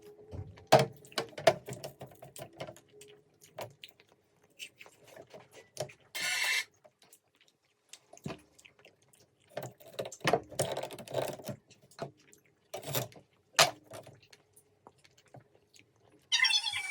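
Close-miked chewing and wet mouth sounds from eating soft chewy candy, with scattered sharp clicks and two short crackles, one about six seconds in and one near the end.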